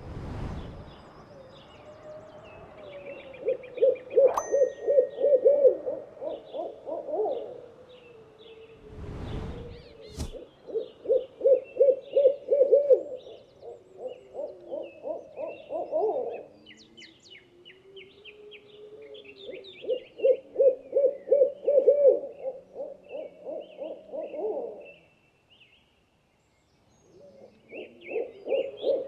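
An owl hooting in rapid series of low hoots, in several bouts of a few seconds each, with small birds chirping faintly behind. A dull thump about nine seconds in.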